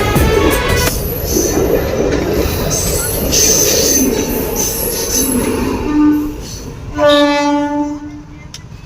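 Train running along the track, then sounding its horn: a short toot about six seconds in and a longer blast of about a second a moment later.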